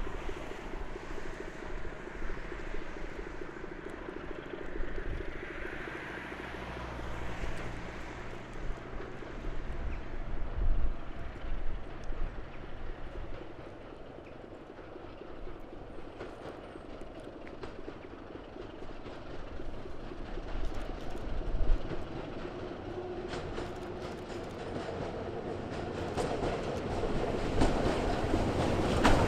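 A train running along the line, with wheels clattering over rail joints, growing louder over the last few seconds as it comes closer.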